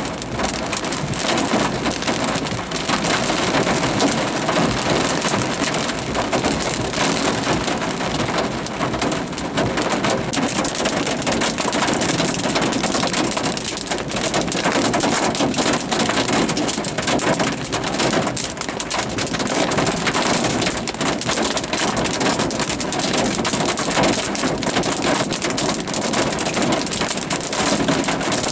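Heavy rain falling steadily: a dense, even spatter of drops with no let-up.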